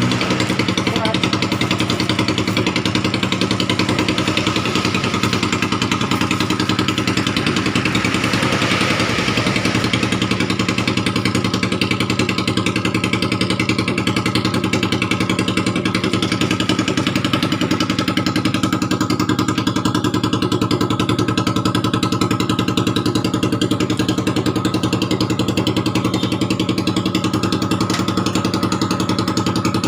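Motorcycle engine idling steadily through a shop-built exhaust under test, holding an even, unchanging note.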